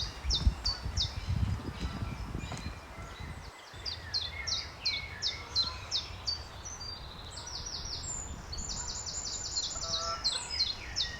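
Small songbirds singing: series of short, high, down-slurred notes, with a fast rapid trill of repeated notes in the second half. A low rumble of wind or handling on the microphone sits under the first few seconds.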